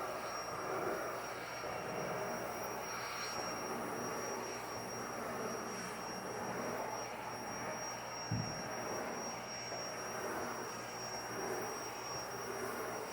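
Vacuum cleaner running steadily, its motor giving a high steady whine, with a single thump about eight seconds in.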